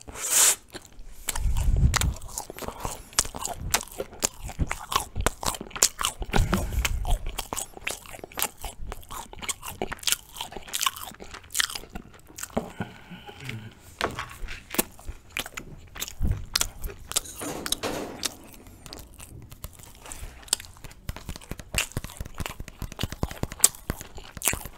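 Close-miked biting and chewing of Turkish Ramazan flatbread with ajvar spread: many small crunchy, wet mouth clicks and crackles, with a few dull low thumps mixed in.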